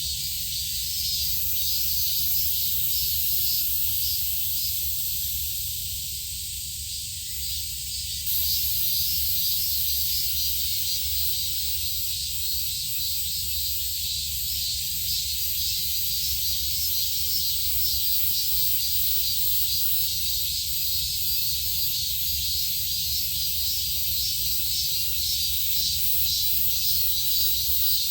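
Steady high-pitched insect chorus, a dense shrill hiss, over a low steady rumble; the sound shifts abruptly about eight seconds in.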